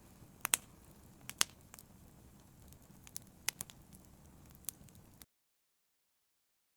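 Fire in a brazier crackling: scattered sharp pops and snaps over a low hiss. The sound cuts out abruptly to dead silence about five seconds in.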